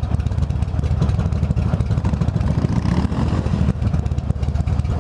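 Buell XB12Scg motorcycle's air-cooled V-twin engine running steadily, its firing pulses coming as a rapid, even throb.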